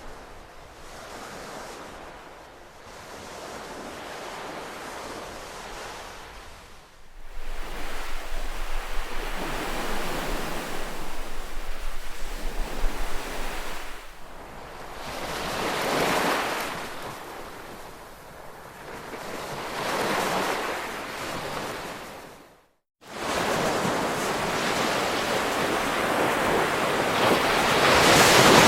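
Ocean surf: waves breaking and washing back in swells every few seconds. The level jumps abruptly about a quarter of the way in, and the sound cuts out for a moment near two-thirds of the way through, as at an edit splice.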